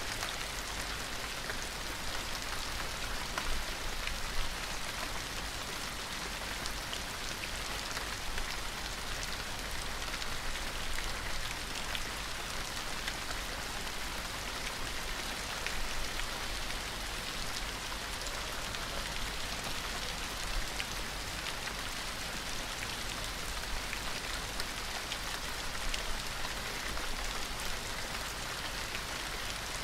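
Gentle rain falling steadily: an even hiss of rain with individual drops ticking through it, and a few slightly louder drops now and then.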